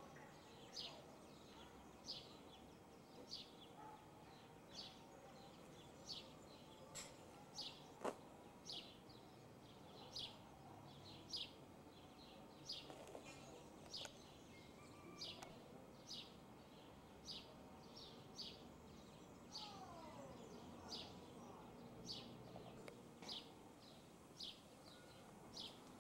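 A small bird chirping over and over, short high chirps about one and a half a second, against faint outdoor background noise.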